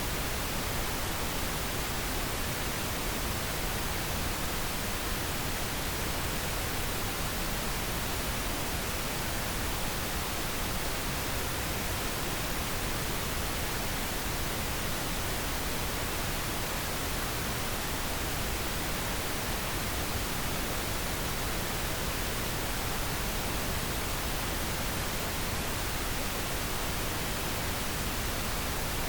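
Steady pink noise: an even, unchanging hiss spread across all pitches, weighted a little toward the low end.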